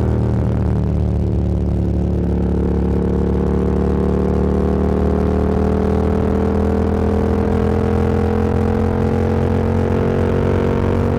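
Motorcycle engine running as the bike rides along, its pitch rising slowly and steadily as it gains speed in one gear.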